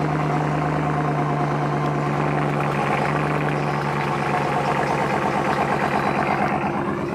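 2015 Dodge Ram's 5.7-litre Hemi V8, built with a 6.1 cam, 6.1 heads and Hellcat injectors, idling steadily after start-up.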